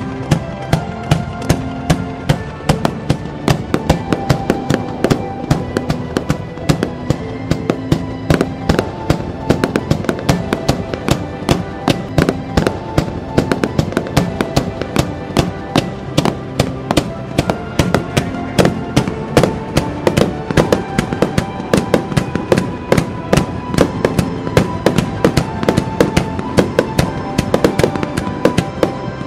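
Fireworks shells bursting in a rapid, continuous volley, about three sharp bangs a second, over background music with held notes.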